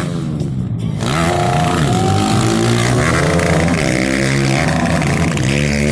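Pit bike engines revving hard, their pitch rising and falling over and over, with more than one engine heard at once.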